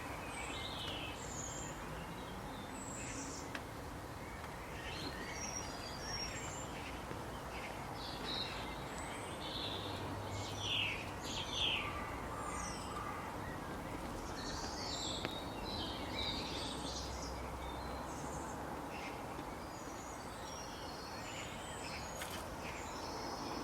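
Birds chirping, many short high calls scattered over a steady background hiss.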